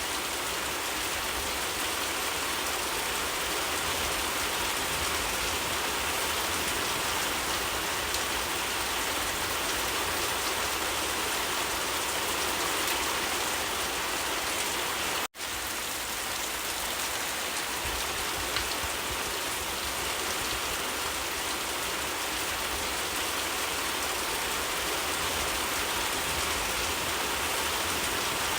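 Steady, even rain falling. It cuts out for an instant about halfway through, then carries on as before.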